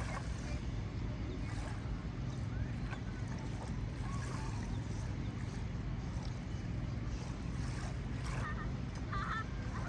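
Steady low rumbling noise, with a few faint high chirps about eight to nine and a half seconds in.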